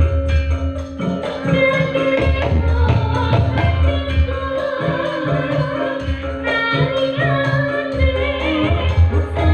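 Live Javanese sragenan dance music: a singer's wavering vocal line over a steady drum-and-bass beat, with a long held instrumental note that stops near the end.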